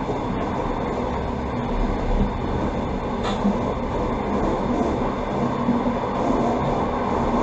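Steady running noise of a passenger train, heard on board through the carriage, with a faint low hum and a short high squeak about three seconds in.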